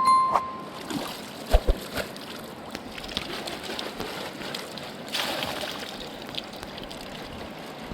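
River water sloshing and flowing, with a few sharp knocks about a second and a half in and a louder surge of water about five seconds in. A brief high ding sounds right at the start.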